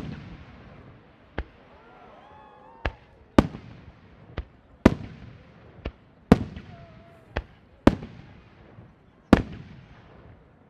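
Starmine fireworks: a rapid run of aerial shells bursting, about ten sharp bangs roughly a second apart, each trailing off in a rolling echo.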